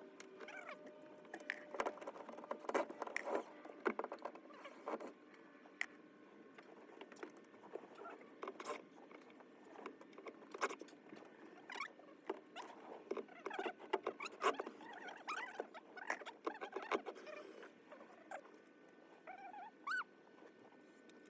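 Irregular small clicks and knocks mixed with short squeaks, as of parts being handled and worked during a repair.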